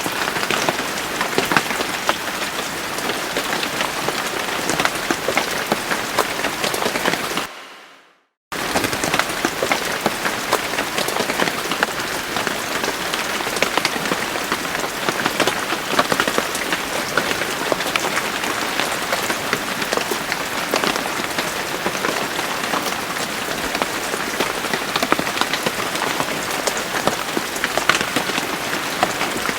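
Steady rain falling on a surface, a dense hiss full of individual drop ticks. About seven seconds in it fades out quickly, drops to silence for about a second, then cuts back in abruptly at full strength.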